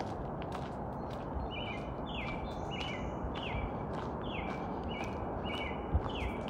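A small bird calling over and over, a string of short falling chirps starting about a second and a half in and repeating once or twice a second. Under it run footsteps on a gravel trail, with a firmer step near the end.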